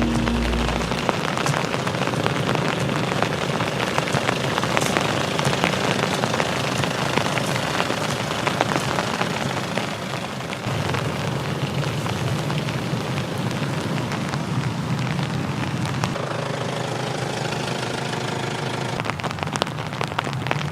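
Steady rain: a dense hiss of many drops pattering at once, with a scatter of sharper individual drop ticks.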